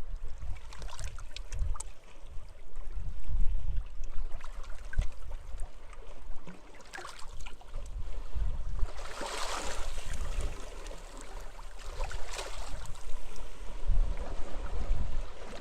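Small sea waves washing and splashing on a shore, the biggest surge about nine seconds in, with gusty wind rumbling on the microphone.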